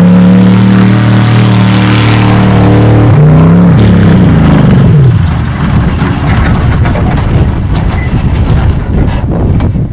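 Monster truck's diesel engine running loudly, revving up and dropping back about three seconds in. About five seconds in, the steady engine note gives way to a loud, rough noise with no clear pitch.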